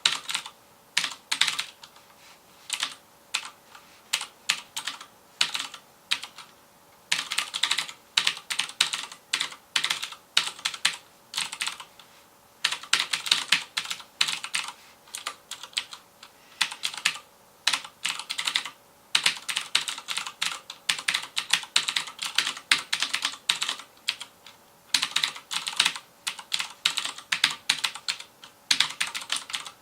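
Typing on a FILCO Majestouch Convertible 2 mechanical keyboard with clicky Cherry MX Blue switches: rapid keystrokes in runs of several seconds, broken by short pauses.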